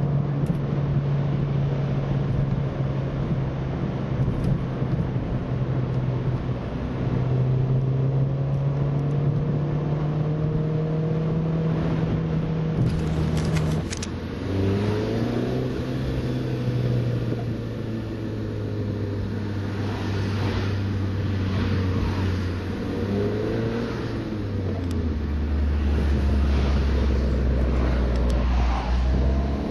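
R56 Mini Cooper S 1.6-litre turbocharged four-cylinder running through a John Cooper Works exhaust with a new rear silencer. The engine note holds steady, drops in pitch about halfway through and again near the end, with a few short rising sweeps in between.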